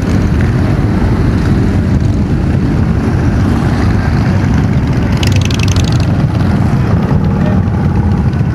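Motorcycle engines rumbling steadily while riding, with wind on the microphone. A brief higher-pitched buzz comes about five seconds in.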